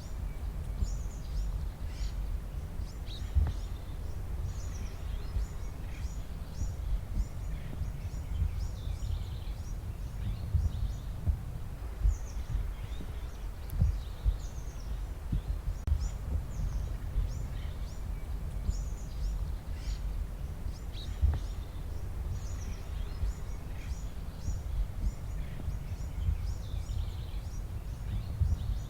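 Birds chirping over and over in short calls, over a steady low rumble.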